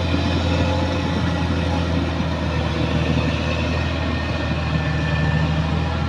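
Heavy diesel engine of a bulldozer running at a steady speed: a deep, even drone that holds one pitch throughout.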